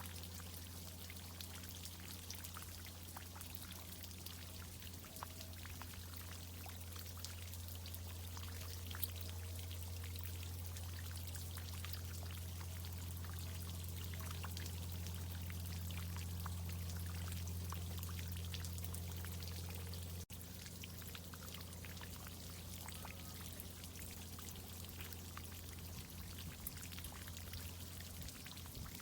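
Irrigation water pouring and spattering while trees are watered, with many fine drip ticks over a steady low hum. The hum and the water briefly cut out about twenty seconds in.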